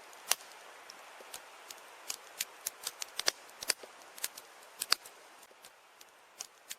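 Campfire crackling: irregular sharp pops and snaps over a faint hiss.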